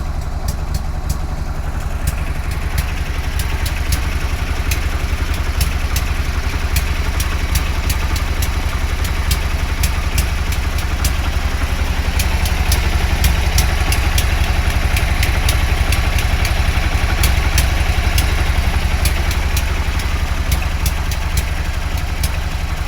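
Buell M2 Cyclone's air-cooled V-twin idling steadily, with a sharp ticking about two to three times a second over the engine sound. The tick is a strange noise (異音) the owner can't place, heard just after the bike came back from running on one cylinder.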